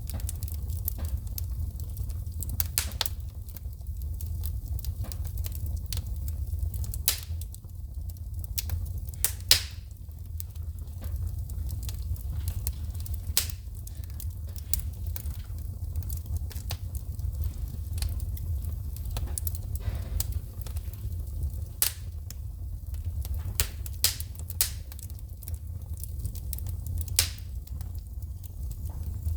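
Wood fire in a fireplace crackling, with irregular sharp pops of sparks shooting from the burning logs, a few of them louder, over a steady low rumble.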